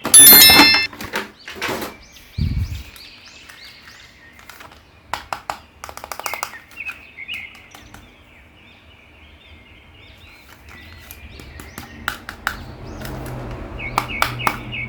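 Small birds chirping repeatedly in the background, with scattered clicks and knocks. A loud, sudden clattering sound in the first second is the loudest thing here.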